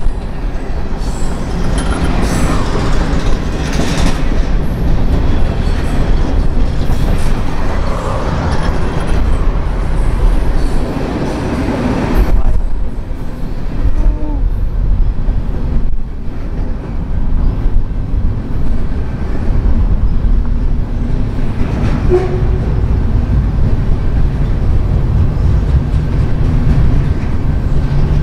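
Freight train rolling past on the rails: a steady low rumble of cars and wheels on the track.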